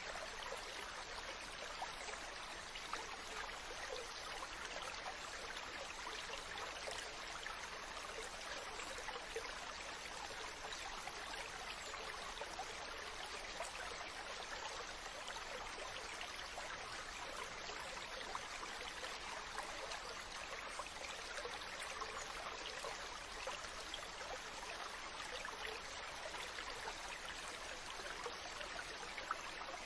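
Ocean water washing: a steady hiss of water flecked with small crackles, without distinct swells.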